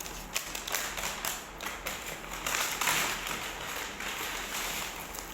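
Fast-food paper packaging being handled: a run of crinkling, rustling and small taps, busiest about halfway through.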